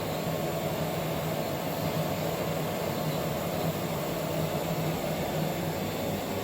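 Steady machine hum with a constant low drone and hiss from running laboratory equipment, with no change in level throughout.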